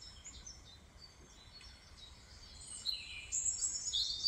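Songbirds chirping, with runs of quick, high repeated notes that grow louder about three seconds in.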